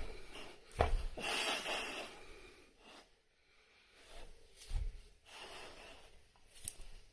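Cane Corso dog making a few short, noisy breaths, with a soft low thump about five seconds in.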